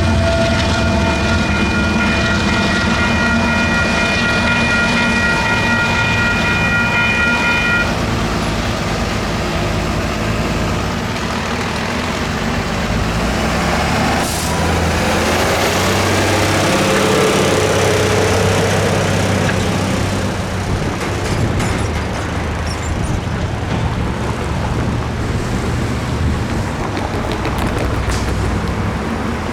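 Union Pacific intermodal stack train rolling past with a steady rumble of wheels and cars. A high, steady whine of several tones stops about eight seconds in.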